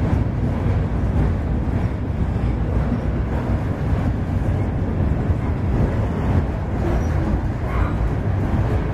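Covered hopper cars of a CSX freight train rolling across a steel truss bridge: a steady, continuous low rumble of wheels on rail.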